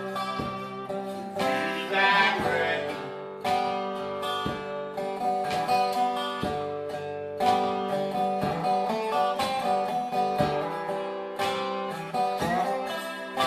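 Acoustic guitar playing a slow blues passage, strummed chords and single notes ringing out with reverb.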